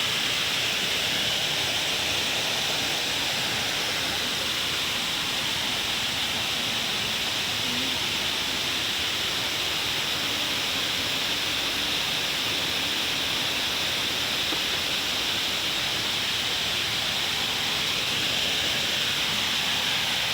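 Waterfall falling steadily: a constant, even rush of water.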